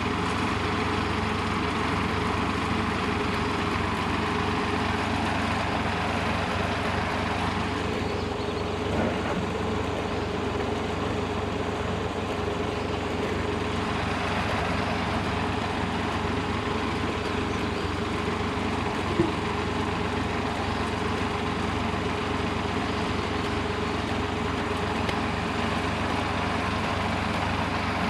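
Engine running steadily at an even speed, with a single short sharp knock about two-thirds of the way through.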